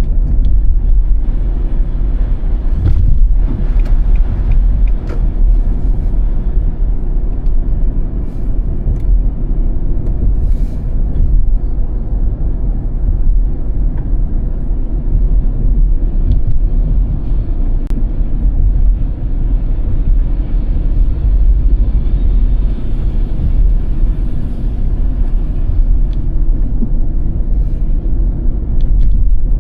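Car driving on a snow-covered road: a steady, loud low rumble of tyres and engine, with a few faint clicks.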